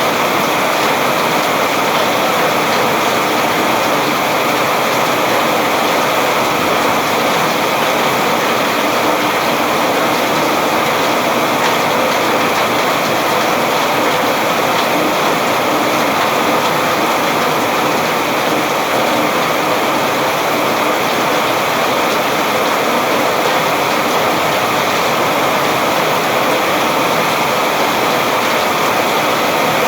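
Steady rain, an even continuous hiss with no single drops standing out.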